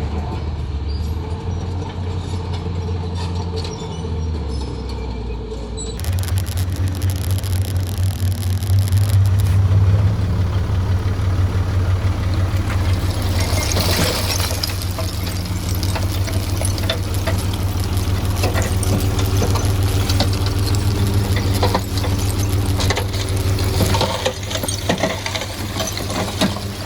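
Heavy diesel construction machinery running steadily under load, with scattered clanks, squeaks and scraping over the engine drone. The sound changes abruptly about six seconds in and is louder after that.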